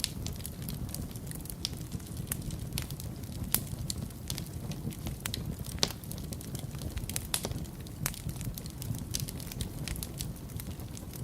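Wood fire crackling in a fireplace: a steady low rumble under irregular sharp crackles and pops, with a couple of louder pops near the middle.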